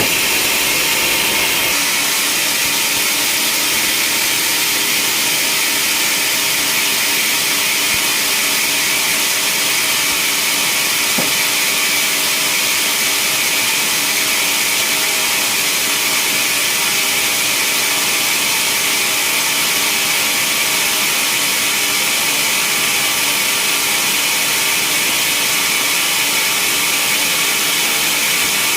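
Sawmill saw and its motor running steadily while cutting through a large log: a loud, unchanging machine noise with a constant engine hum beneath it.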